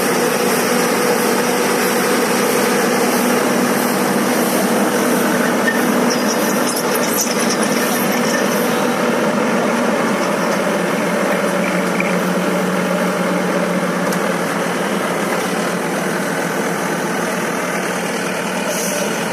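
Guardrail pile driver's Weichai diesel engine running steadily with a continuous mechanical hum that drops in pitch about ten seconds in.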